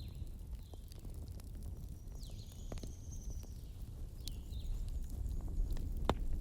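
Campfire burning with a steady low rumble and scattered crackles, and one sharp pop near the end. Short high chirping calls sound over it, with a longer one in the middle.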